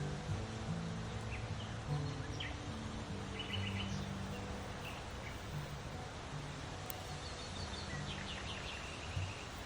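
Small birds chirping in short quick series, a couple of times, over soft background music of low sustained notes that change every second or so.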